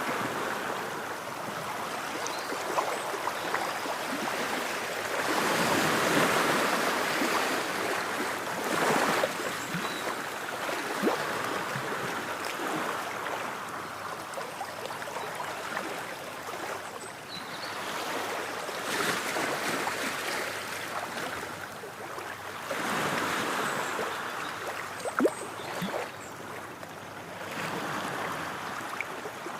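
Ocean waves washing ashore, the surf swelling and easing every few seconds, with small splashes now and then.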